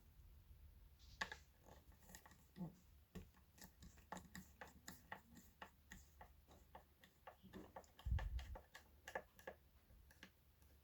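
Faint, irregular light clicks and taps of parts being handled during a subwoofer teardown, with one dull low thump about eight seconds in.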